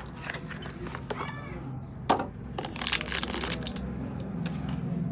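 A series of sharp clicks and knocks over a low steady hum, with a dense run of clicking about three seconds in.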